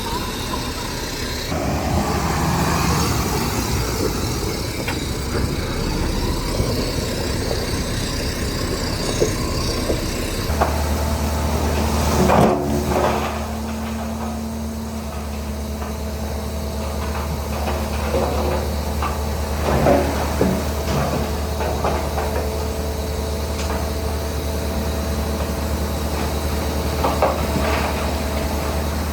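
Heavy construction machinery's diesel engine running, its note changing to a steady low hum about ten seconds in, with several loud knocks and clanks, the loudest about twelve seconds in.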